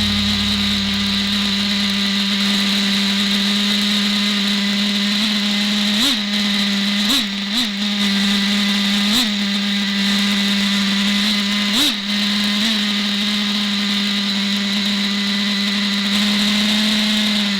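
Traxxas Revo 3.3 RC truck's small nitro engine running at a steady high idle, with several brief throttle blips that raise its pitch for a moment.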